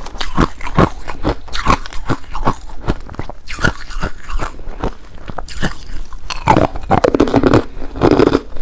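Ice being bitten and chewed close to the microphone: a rapid, irregular run of loud crunches and cracks, denser near the end.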